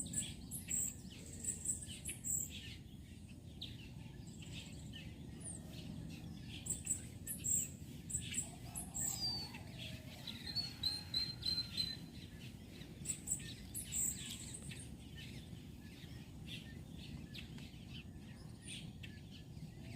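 Wild birds chirping: short high chirps scattered throughout, with a quick run of repeated notes about ten seconds in, over a steady low background noise.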